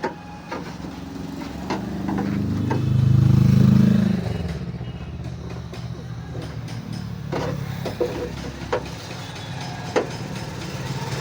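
A vehicle engine hums, swelling to its loudest about two to four seconds in as it passes, then settling to a lower steady hum, with scattered short taps and clicks.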